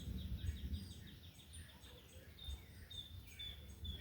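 Wild birds singing: a fast trill of short, falling chirps, then spaced high notes, over a low rumble of wind that dies away about a second in.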